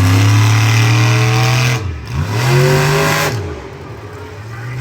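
Monster truck engine running loud at high revs. The throttle is chopped about two seconds in, blipped back up, then let off so the engine drops back to a lower, quieter run.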